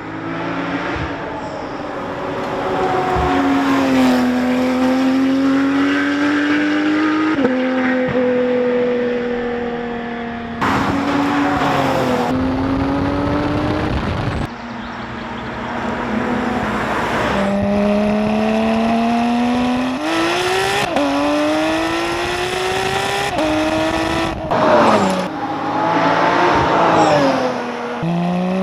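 Supercar engine and exhaust being driven hard. The engine note rises and falls repeatedly as it accelerates and changes gear, with sudden jumps in pitch at the shifts.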